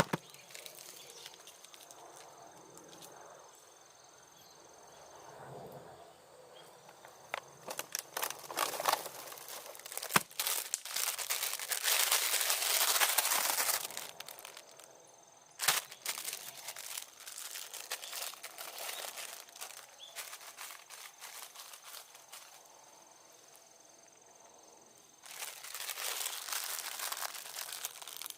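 Campfire cooking sounds: scattered clicks, knocks and crinkling from handling, with two stretches of hiss a few seconds long, one in the middle and one near the end.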